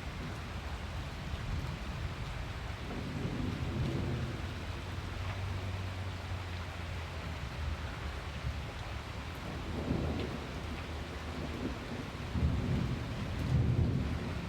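Heavy rain pouring steadily, with low thunder rumbling beneath it that swells several times, loudest near the end.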